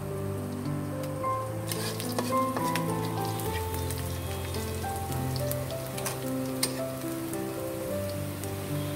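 Sliced onions and green chillies sizzling and crackling in hot oil in a kadai, starting about two seconds in, over background music of slowly changing held notes.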